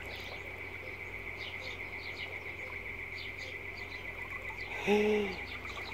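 Small birds chirping faintly over steady outdoor background noise, with one short voiced sound from a person about five seconds in.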